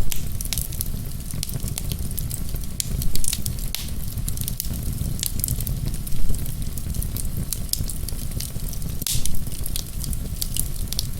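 Wood fire burning in a fireplace, crackling with many quick sharp pops and a few louder snaps, over a steady low rumble.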